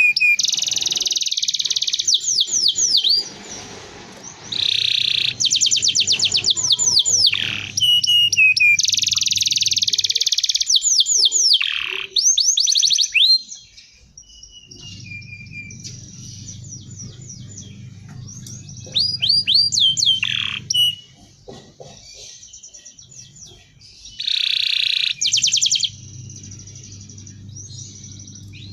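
Domestic canary singing in phrases of very fast trills and rolls with repeated falling sweeps, each phrase a few seconds long with short pauses between them.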